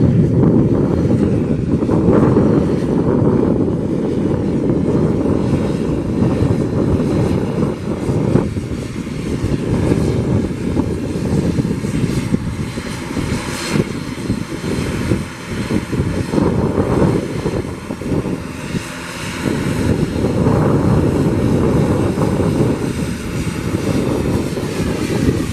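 Twin turboprop engines and propellers of an ATR 72-600 airliner running loudly, as a steady, fluctuating drone.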